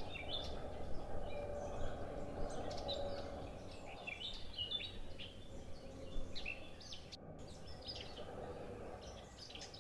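Several songbirds chirping and calling, many short high notes overlapping, over a steady low rumble.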